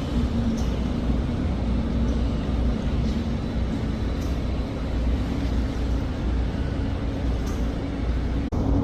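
A heavy vehicle engine, likely the diesel truck, running steadily with a low rumble, broken briefly by a cut near the end.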